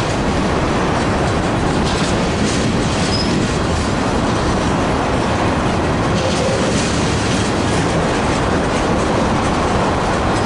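Freight train cars rolling past: a steady, loud rumble of steel wheels on the rails with occasional clicks.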